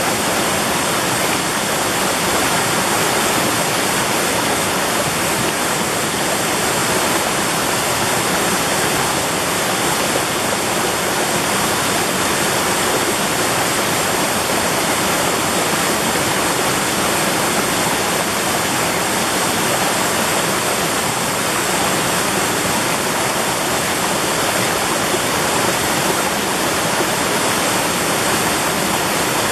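Mountain stream rushing over rocks in a steady, even loud rush of water.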